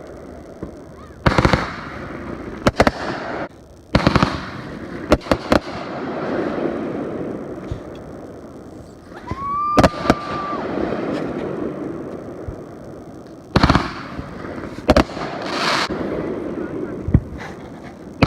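Fireworks going off: a string of sharp bangs, some in quick pairs, with a whistling shell rising in pitch and then holding its note about nine seconds in, just before one of the loudest bangs.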